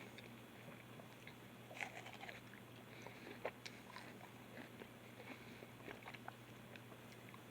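Faint wet chewing, biting and lip-smacking clicks of someone eating a soft, ripe plum, coming at irregular intervals.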